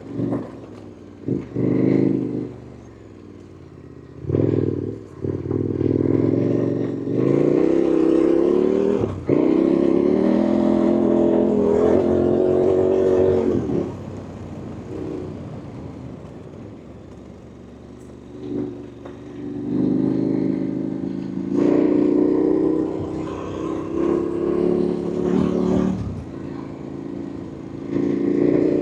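KTM 1290 Super Adventure's V-twin engine pulling hard in several surges, its note climbing and dropping as it accelerates and eases off. It falls back to a low level for a few seconds about halfway through, then pulls again. A few sharp knocks sound over it.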